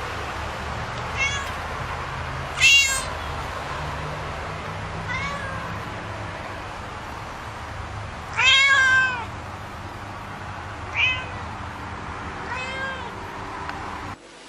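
Domestic cat meowing six times, each a short rising-then-falling cry. The longest and loudest comes a little past the middle, over a steady low hum.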